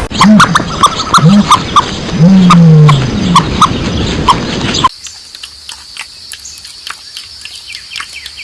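Animal calls: several low calls that rise and fall, mixed with short, evenly repeated bird chirps. About five seconds in the sound cuts to a quieter stretch of faint chirps and clicks over a steady high-pitched hum.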